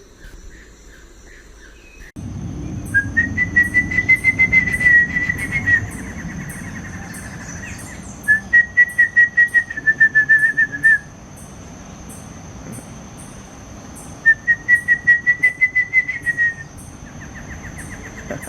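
A barbet calling in three bouts of rapidly repeated, evenly pulsed notes, each bout lasting two to three seconds. A steady high insect drone runs beneath.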